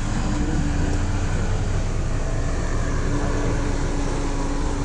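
Off-road vehicle's engine running steadily, with a low hum that holds an even pitch.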